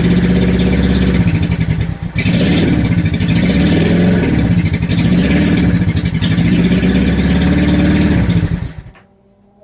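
Honda CB350 motorcycle engine running, its speed rising and falling a few times, with a brief dip about two seconds in; the sound cuts off abruptly near the end.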